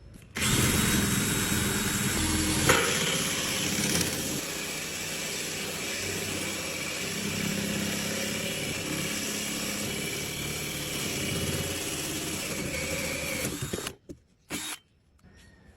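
Electric drill running steadily under load, boring out a hole in wood. It stops suddenly near the end, followed by a couple of short knocks.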